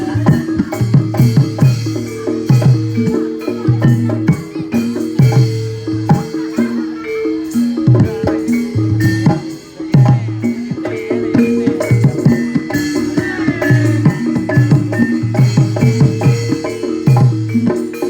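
Live Javanese barongan accompaniment: a gamelan-style ensemble with drums beating a busy, steady rhythm under repeating struck metal-keyed notes.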